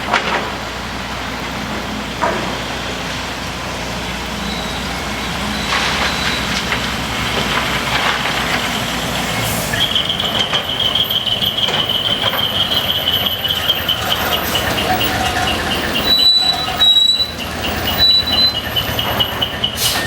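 A decorated heavy truck with a split exhaust manifold running nearby. About halfway through, a high, fast-pulsing chirping tone comes in and keeps going, with a few louder knocks near the end.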